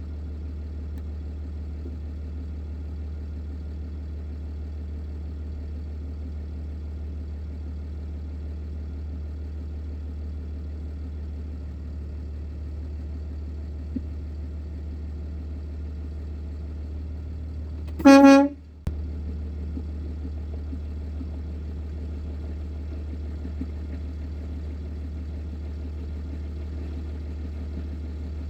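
Steady low drone of an idling truck engine, with one short, loud horn blast about two-thirds of the way through.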